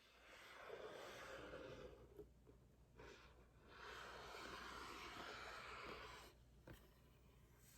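Faint, soft rustling of packaging being handled, in two stretches of about two seconds each, with a light tap about three seconds in and another near the end.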